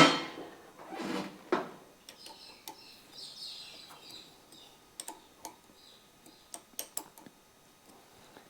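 A sharp knock at the start and another about a second and a half in, then scattered light clicks and taps of parts being handled while the motorcycle's clip-on handlebars are positioned.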